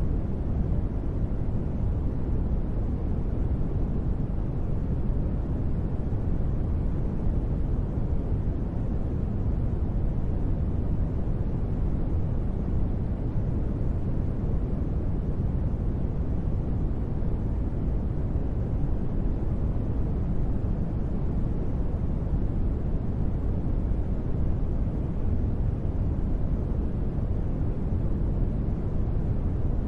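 Steady ambient noise bed of a deep-space ambience track: an unbroken deep rumbling hiss, strongest in the bass and thin in the treble, with no change.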